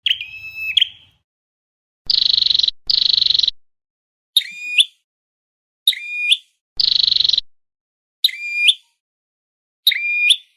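Recorded calls of a red-headed flowerpecker (chim sâu đầu đỏ) played as a trapping lure: a string of short, sharp chirps that bend in pitch, repeating about every second and a half. Three harsh buzzy rattles come between them, two close together about two seconds in and one near the middle.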